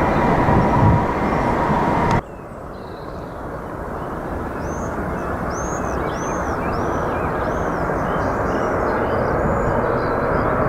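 Loud rushing noise with a steady whine that cuts off suddenly about two seconds in, then a jet airliner's engine noise building steadily as it approaches. Birds chirp over it, a run of short arched calls in the middle.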